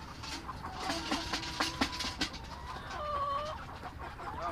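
Cornish Cross cockerels clucking and calling in a crowded pen, with a run of scratchy clicks and rustles about a second in and one held call near three seconds in.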